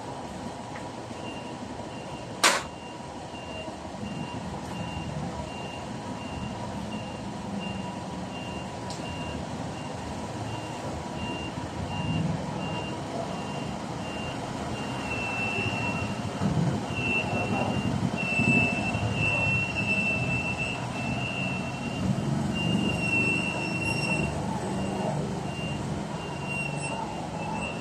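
A vehicle's reversing alarm beeping steadily, about two high beeps a second, over a low engine rumble; the beeping grows louder about halfway through. A single sharp knock sounds about two and a half seconds in.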